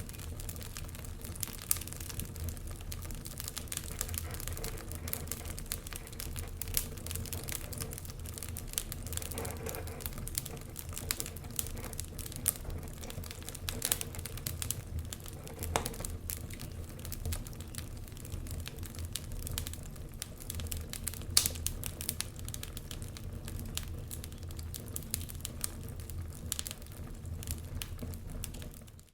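Wood fire burning in an open fireplace: a dense, irregular crackle of small snaps and pops, a few sharper ones standing out, over a low steady rumble.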